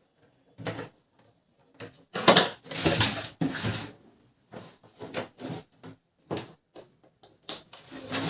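Irregular plastic clicks, knocks and scraping from the casing and covers of a Canon LBP 2900 laser printer being handled, with a louder stretch of rubbing and sliding about two to four seconds in.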